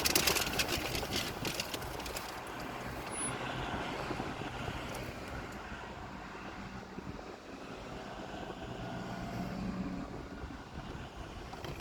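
Steady low mechanical hum, with a cluster of crackling rustles in the first second.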